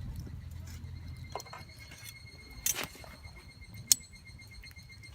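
A few light clinks, the loudest two near the middle, about a second apart.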